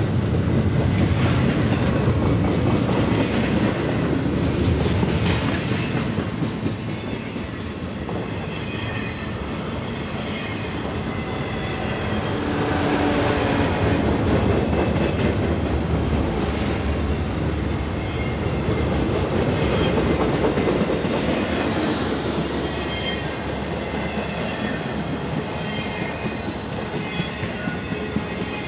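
Intermodal freight train's cars rolling past at speed, a steady rumble of steel wheels on rail with clicking over the rail joints and faint wheel squeal now and then. The cars are doublestack container well cars giving way to truck trailers on spine cars.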